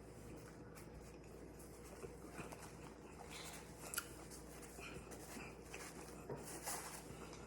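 Faint sounds of eating a crispy fried empanada: quiet chewing with scattered light clicks, and one sharper click about four seconds in.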